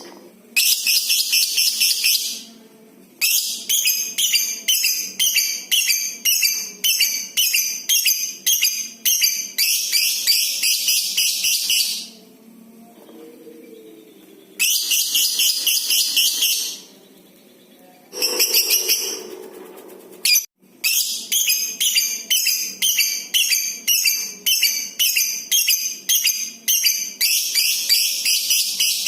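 Lovebird giving long series of shrill, high-pitched calls in rapid repeated pulses of about two a second, broken by a few short pauses.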